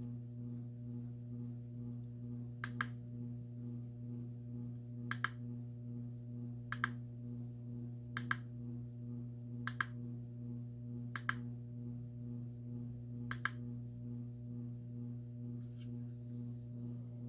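Plastic button on a portable noise machine pressed seven times, each press a quick double click, one to two seconds apart, over a steady low hum.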